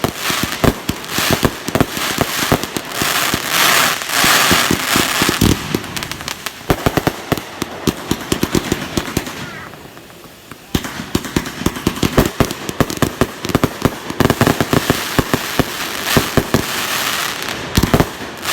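Fireworks going off in rapid runs of sharp pops and crackles, with a brief lull about halfway through before the popping starts again.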